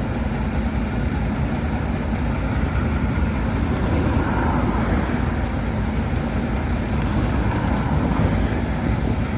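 Heavy diesel dump truck engine running steadily.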